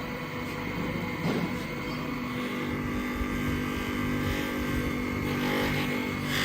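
A machine motor running steadily with a constant hum that firms up about two seconds in.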